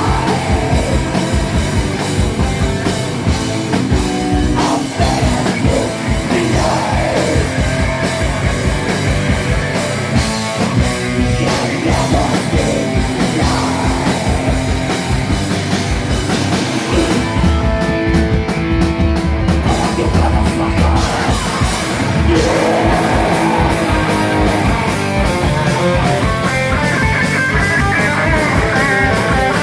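Live rock band playing loudly, with drums, electric guitar and singing. The cymbals drop out for a few seconds past the middle, then the full band comes back in.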